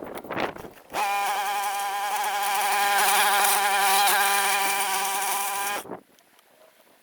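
A small engine running at a steady, slightly wavering pitch for about five seconds, starting and stopping abruptly.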